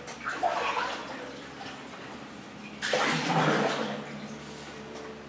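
Two canoe paddle strokes splashing and swirling in the water, the second louder, each leaving a ringing echo inside a concrete and corrugated-metal culvert.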